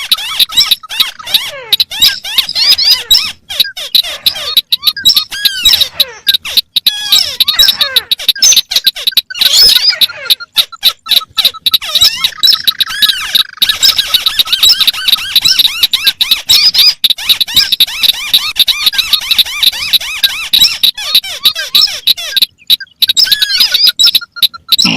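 Recorded calls of several crakes, among them the white-browed crake, mixed together so they overlap out of step with each other. The result is a dense, unbroken chatter of rapid squeaky notes and high chirps, with a thin steady whistle running underneath.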